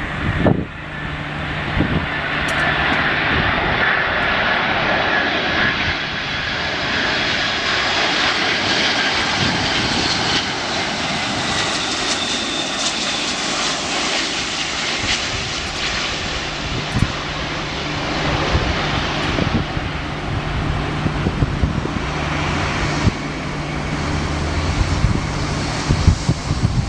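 Three-engined jet airliner passing by, its engine noise building over the first few seconds, holding, then easing off, with a high turbine whine that drifts slightly down in pitch.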